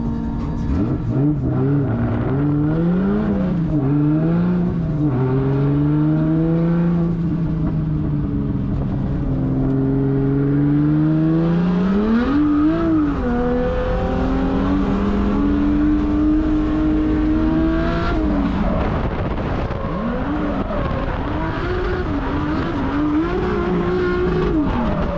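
Toyota 1.5JZ straight-six in a drift car revving hard and falling back over and over through a practice run, its pitch climbing and dropping repeatedly with a sudden drop about three-quarters of the way through.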